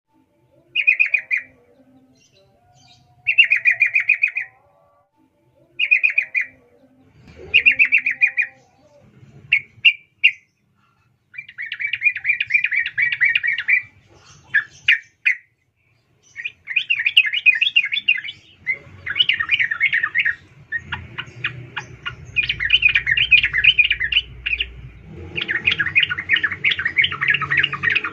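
Female yellow-vented bulbul chattering: short bubbly call phrases about every two to three seconds, turning into long, almost unbroken chattering over the last third.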